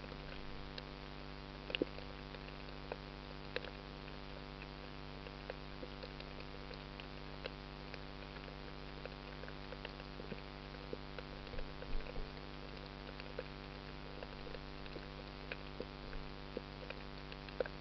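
Steady low hum with faint, scattered clicks and crackles, a few louder ones about 2 and 12 seconds in.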